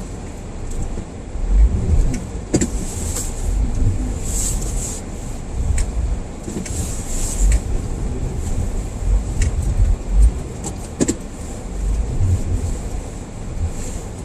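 A car driving slowly through deep snow: an uneven low rumble with scattered clicks and knocks.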